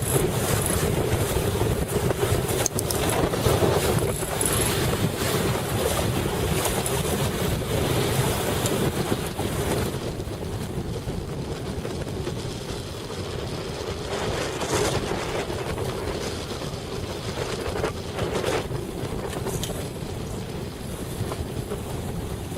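Strong wind buffeting the microphone over rushing water, with a steady low drone underneath; it eases somewhat about halfway through.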